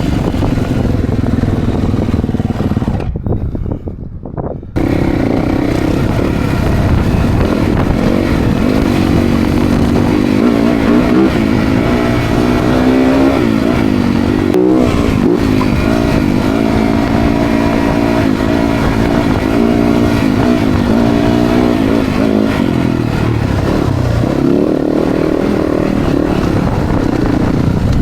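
Dirt bike engines revving up and down as the bikes ride, the pitch rising and falling with the throttle. The sound drops away briefly about three seconds in, then comes back.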